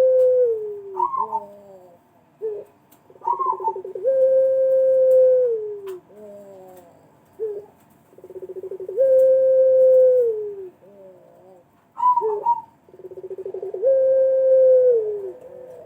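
Puter pelung, a long-cooing turtle dove, cooing in a repeated phrase: a quick stuttering roll, then one long drawn-out coo that falls at its end, then a few short falling notes. The phrase comes round about every four seconds, four times.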